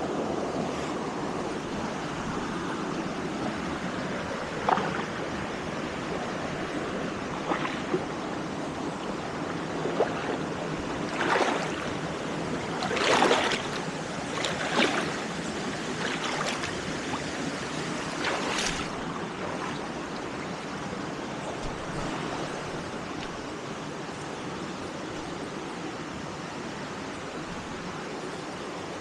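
Waterfall rushing steadily into a pool. A handful of short, sharp sounds stand out between about 5 and 19 seconds in, the loudest about 13 seconds in.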